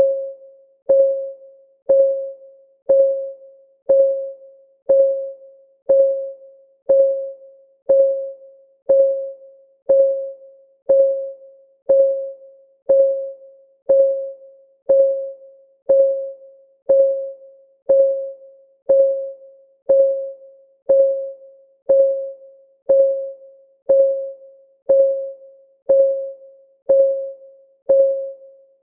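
Clock-ticking sound effect of a countdown timer: one tick every second, perfectly even. Each tick is a short pitched tock that rings briefly and fades.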